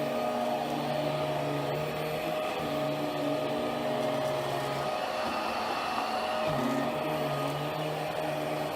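Hoover Power Drive Pet carpet cleaner running, with a steady motor whine. A lower drone under the whine cuts out twice and comes back, as the load on the machine changes.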